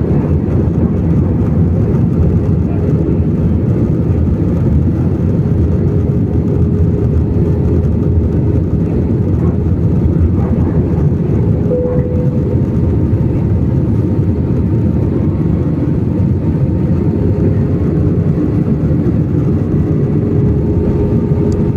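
Airliner cabin noise in flight: a steady rumble of engines and airflow with a faint steady hum above it.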